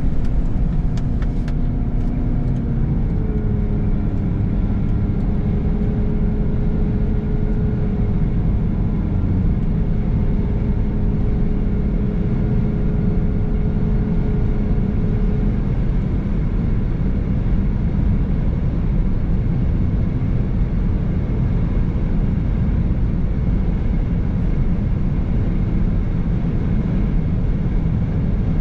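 Car driving on the road: steady engine and road rumble, the engine note rising a little a few seconds in and then holding steady.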